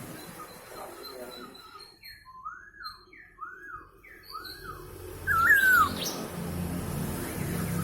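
Chinese hwamei (poksay hongkong) singing: three repeated rising-and-falling whistled notes about two seconds in, then a louder slurred whistle about five seconds in. After that a low steady rumble, like traffic, runs underneath.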